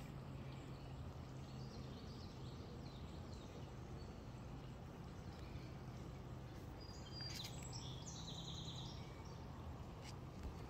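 Faint birds chirping over a steady low hum and hiss: scattered chirps about two seconds in, then a quick run of repeated high notes from about seven to nine seconds in.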